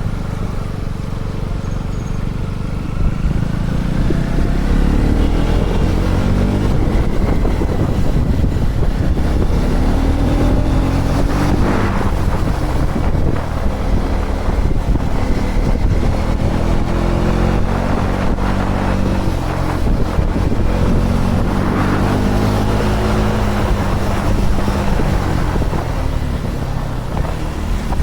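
KTM Duke 250 motorcycle's single-cylinder engine running on the road, its revs climbing and dropping several times as it goes through the gears, with wind rushing over the microphone.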